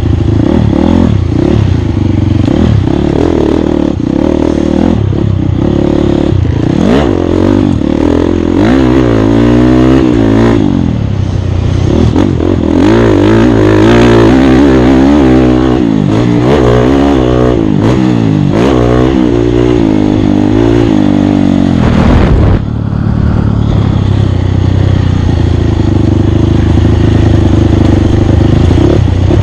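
Off-road race motorcycle's engine revving up and down hard as the rider works the throttle and gears, with rattling and clatter from the bike. About 22 seconds in the engine note drops off suddenly, then holds a steadier note.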